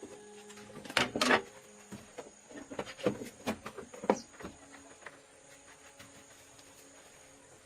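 A quick cluster of sharp clicks or knocks about a second in, then a few scattered knocks over the next few seconds, over a faint steady high-pitched tone.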